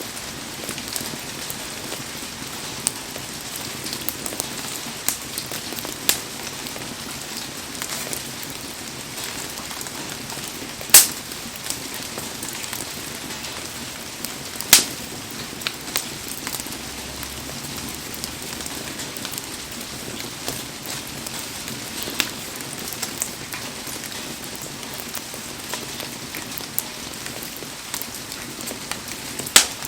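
Heavy rain falling in a steady hiss around a wood bonfire, with scattered sharp pops and crackles from the burning wood, the loudest about 11 and 15 seconds in and near the end.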